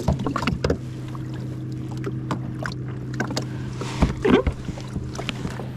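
Irregular clicks and knocks from handling a freshly caught fish aboard a kayak, with a louder cluster of knocks about four seconds in, over a steady low hum.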